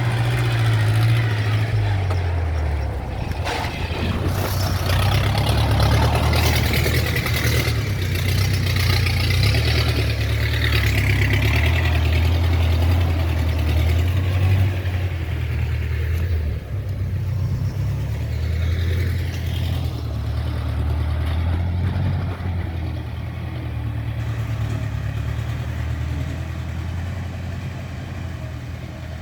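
A vehicle engine running steadily, its low hum shifting up and down in pitch as it speeds up and slows, with a haze of road or wind noise over it.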